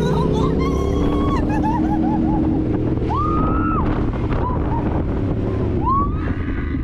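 Dirt bike engine running steadily while riding, with wind rushing over the microphone. A few short high-pitched wavering sounds cut in over it, the longest rising and falling about halfway through.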